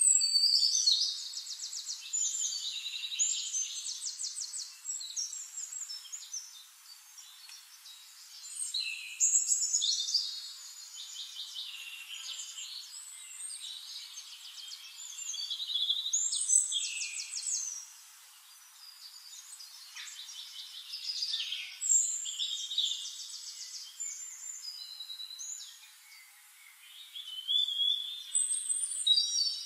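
Songbird song: phrases of fast, high trills and chirps a few seconds long, repeating every few seconds.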